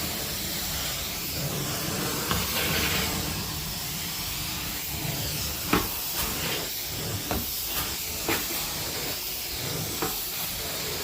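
Carpet-cleaning extraction wand spraying and sucking water from carpet: a steady hiss, with several short sharp clicks in the second half.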